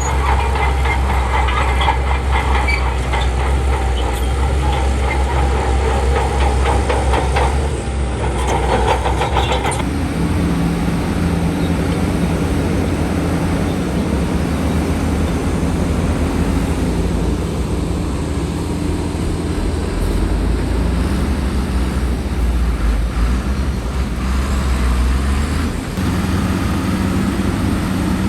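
Heavy diesel earthmoving machinery running under load. For the first ten seconds a fast clattering rides on the engine sound, then it settles to a steadier engine note.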